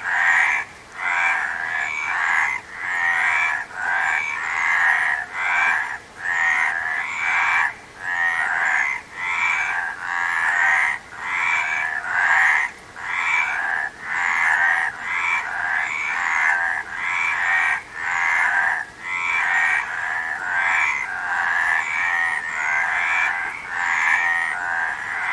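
Frogs calling in a dense chorus: overlapping croaks, each a rapid train of pulses, coming roughly one a second without pause.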